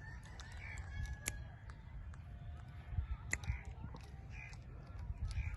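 Rose-ringed parakeet making soft, short chirps about once a second, with scattered sharp clicks over a low steady rumble.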